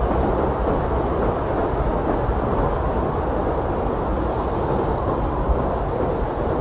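Blizzard wind blowing hard and steadily: a dense, low rush of noise with a deep rumble underneath and little hiss on top, holding an even strength throughout.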